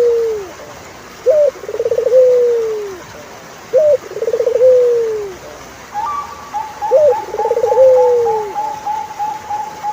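A turtle dove cooing: a repeated three-part call, a short rising note, a quick purring trill and a long falling coo, given about every two and a half seconds. From about six seconds in, a higher, evenly pulsed trill runs alongside it.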